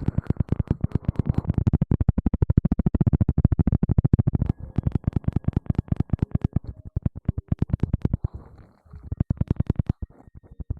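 Fast, even scratching strokes close on the microphone, about ten a second, as in ASMR hair-washing and scalp-scrubbing sounds. The strokes break off briefly a few times and thin out near the end.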